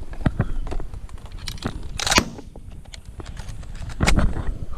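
Irregular clicks and crunches of handling and movement, with one louder sharp crack about two seconds in and a dull thump near the end.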